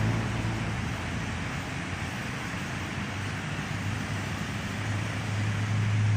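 Continuous rushing noise of breaking surf, with a steady low hum underneath, swelling slightly near the end.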